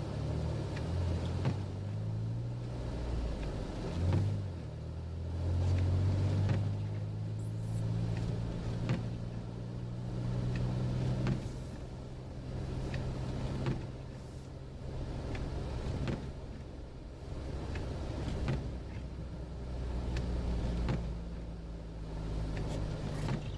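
Jeep Wrangler engine running steadily while driving, its pitch rising a few seconds in and easing back about halfway through.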